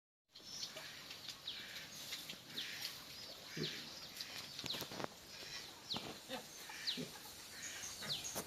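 Animal calls: short, high chirps that fall in pitch, repeating about once a second, with a few fainter low sounds in between.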